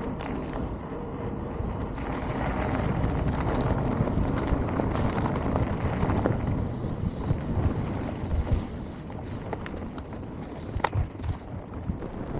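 Mountain bike riding over a dirt trail: steady rumble and rattle of tyres and frame, with wind noise on the microphone and a few sharp knocks from the bike.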